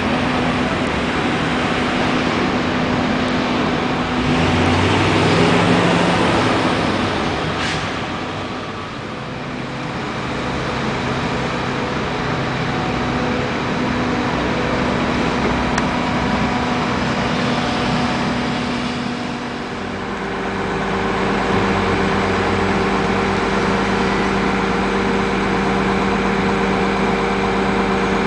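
Engine of heavy construction equipment running steadily, its tone changing about five seconds in and again about twenty seconds in.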